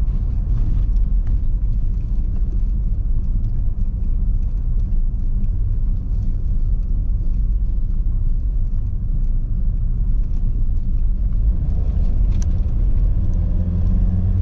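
A 2.4-litre four-wheel-drive car driving, heard from inside the cabin: a steady low rumble of engine and road noise. Near the end the engine note comes up more clearly, with a rising tone, as the car climbs.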